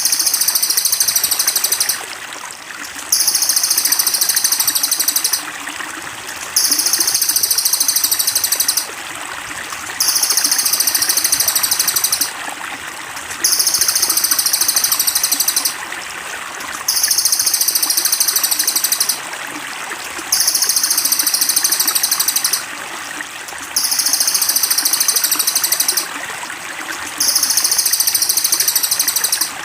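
A very high, buzzy rapid trill repeats in identical bursts of about two seconds every three and a half seconds, like a looped songbird master call. Steady trickling water runs beneath it.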